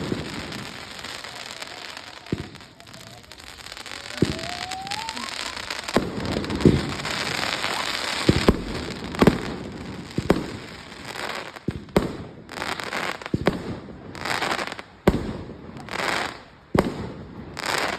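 Fireworks display: sharp bangs with crackling, and a rising whistle about four seconds in. The bangs come faster toward the end, as the finale begins.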